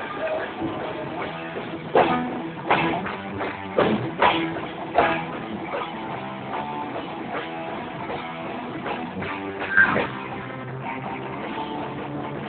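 Live rock band playing guitar and drum kit, recorded on a mobile phone. Several sharp, loud hits stand out from the music, a cluster between about two and five seconds in and another near ten seconds.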